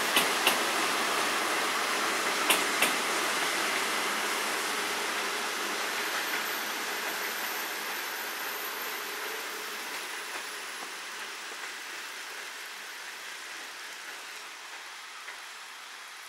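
Railway passenger coaches rolling past on the track, the wheels clacking over rail joints in quick pairs in the first few seconds. The rumble then fades steadily as the train moves away.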